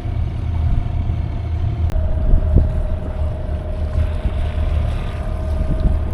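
Cruising catamaran under way: a steady low rumble of wind and water on the microphone, with a steady hum that drops slightly in pitch about two seconds in.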